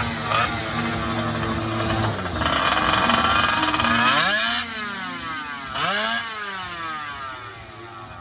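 Goped scooter's small R460 engine running: a steady low hum, then about two seconds of loud high revving, then twice a quick swell up and down in pitch, growing fainter toward the end.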